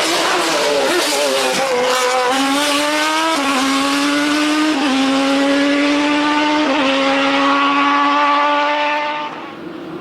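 A vehicle engine revving hard as it accelerates, its pitch climbing and dropping back sharply at three gear changes. The engine sound cuts off abruptly near the end.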